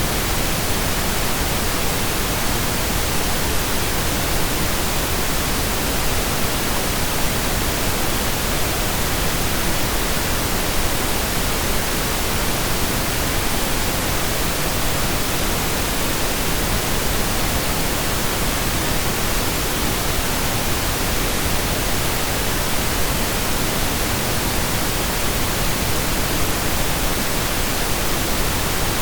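Steady synthesized pink noise: an even, unchanging hiss, spread evenly across low and high pitches.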